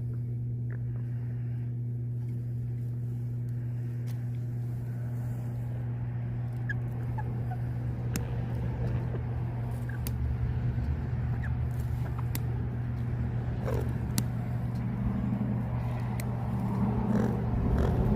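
Steady low electric hum from a running machine, with a few faint short chirps. Scattered clicks and rustling grow louder in the last few seconds.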